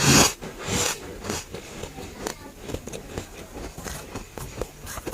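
Freezer frost being bitten and chewed close to the microphone: a loud crunching bite at the start, another about a second in, then chewing with many small crunches.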